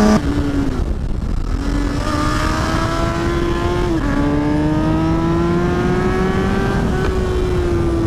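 Kawasaki ZX-10R's inline-four engine under a rider's helmet mic, with wind noise. The note dips and quietens briefly at the start, then climbs steadily in pitch, drops sharply at an upshift about four seconds in, climbs again, and eases off slightly near the end.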